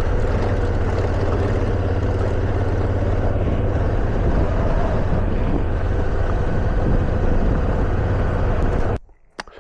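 Motorcycle riding along a rough washboard gravel road: steady engine hum mixed with road rumble and wind. It cuts off suddenly near the end, leaving near quiet with a single short click.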